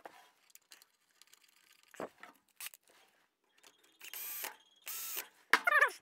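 Light clicks and a knock of work on the radial arm saw's metal parts, then two short hissing bursts of spray lubricant. Near the end a loud, wavering squeak starts up.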